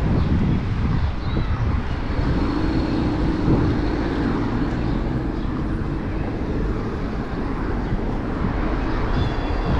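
City street traffic heard from a moving bicycle: a steady low rumble of passing vehicles and wind on the microphone, with a vehicle engine's hum rising out of it for a few seconds about two seconds in.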